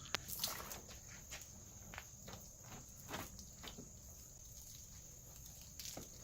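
Crickets chirping steadily in the background, with faint scattered scuffing and swishing sounds.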